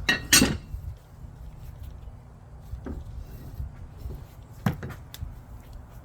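Two sharp clunks, one about half a second in and one near the end, as a steel mower blade is handled and set down, with a faint low rumble between them. No grinder is running.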